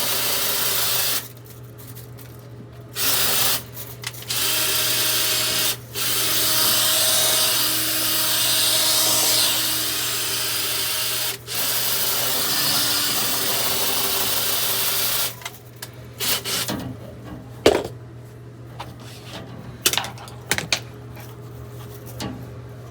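Power drill spinning a dryer vent cleaning brush, run in several long bursts with brief stops, then switched off about fifteen seconds in. A few scattered knocks and clicks follow.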